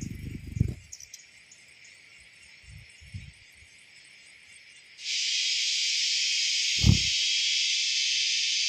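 A steady, high-pitched insect drone comes in suddenly about five seconds in and holds steady, with a single low thump just before seven seconds. Before that there is a brief low rumble and then a quiet stretch with a faint hiss.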